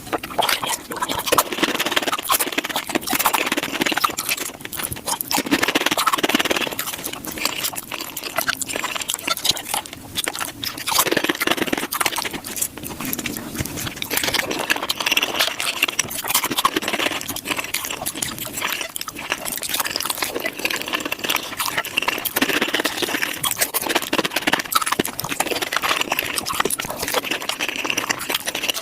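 Close-miked eating of tacos sped up about five times: dense, rapid crunching and chewing with a constant crackle of clicks.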